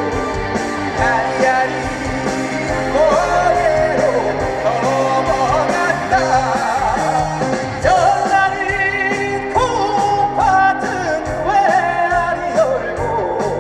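Live trot performance: singing over an amplified backing band, with a steady beat and bass.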